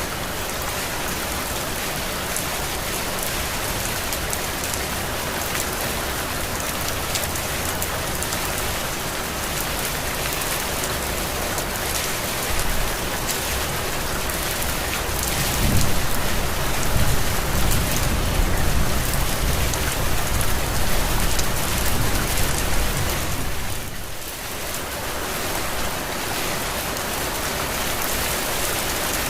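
Heavy rain falling steadily in a dense, even hiss, with a low rumble rolling under it for several seconds past the middle. The rain briefly drops in level near the end.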